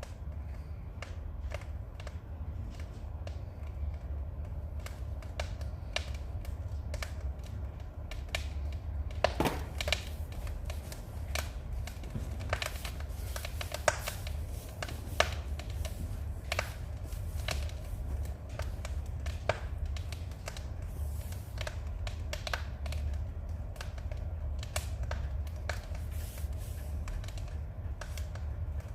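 Firewood burning in a fireplace, crackling and popping irregularly over a steady low rumble, with a few louder pops now and then.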